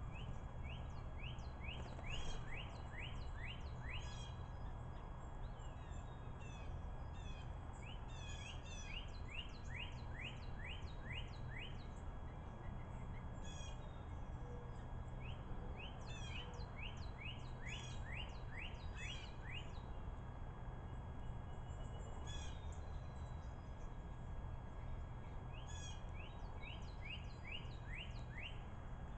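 Northern cardinal singing: four phrases of quick, repeated slurred whistles, about four notes a second, each phrase a few seconds long and spaced about eight seconds apart. A steady low rumble runs underneath.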